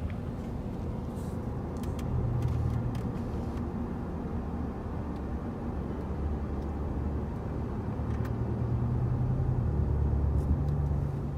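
Vehicle engine running with a steady low rumble, its pitch shifting a little a couple of times.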